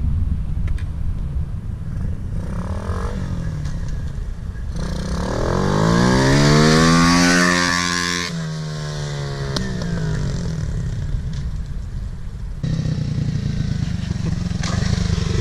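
Motorcycle engine running under way. It grows louder and rises in pitch about five seconds in, peaks, then drops sharply in pitch around eight seconds in and fades back to a steadier running sound.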